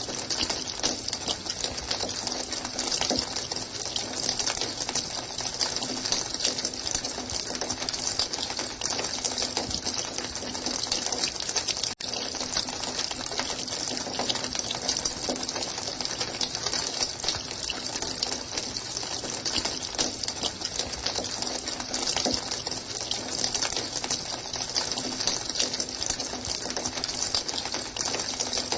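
Running water: a continuous, even rush of splashing water, with a momentary cut about twelve seconds in.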